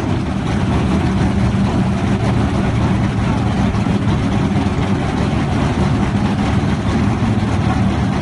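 A drag-race S10 truck's engine idling loudly, a steady low drone with no revving.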